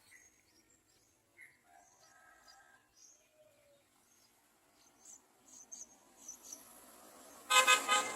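Yellow-vented bulbuls calling: scattered faint, high chirps and a few short whistled notes, then one loud, harsh call near the end.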